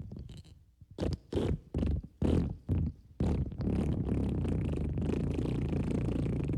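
Fart sound effects: a quick run of about five short farts, then a long, low, drawn-out fart.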